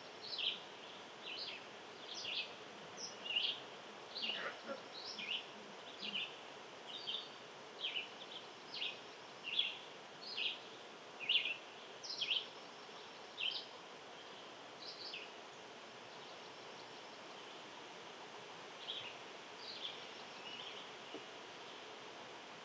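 A small animal chirping: a run of short, sharp, high chirps, about one or two a second, thinning to a few scattered ones after about fourteen seconds, over a steady outdoor hiss.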